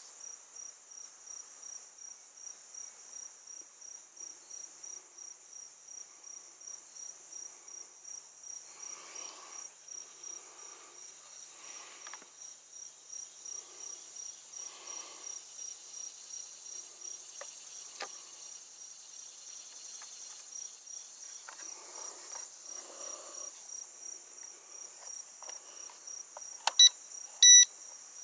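Insects chirping steadily in a high, evenly repeating pulse. Near the end, two loud short electronic beeps.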